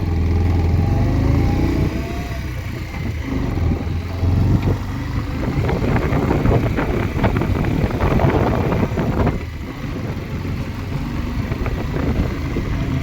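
Motorcycle engine running while riding along a hill road, with rushing air on the microphone that turns rougher and gustier midway.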